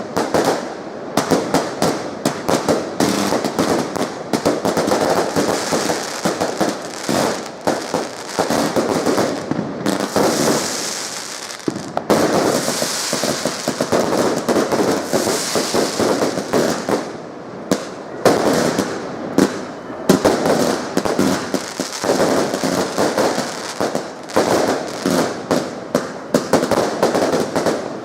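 Fireworks going off in quick succession: a dense, continuous run of sharp bangs and crackles, with a stretch of fizzing crackle in the middle.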